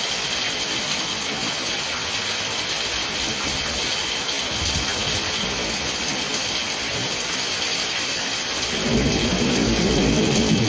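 Heavy rain pouring down in a steady hiss, with a low rumble joining about halfway through. Near the end, guitar music comes in over the rain and the level rises.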